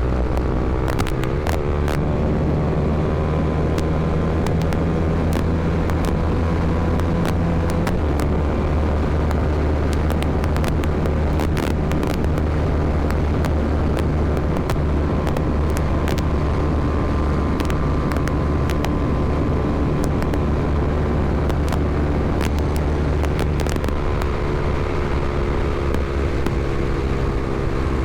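Honda CBR300R motorcycle's single-cylinder engine running steadily at an even pitch, its low note shifting slightly about eight seconds in, with scattered sharp clicks.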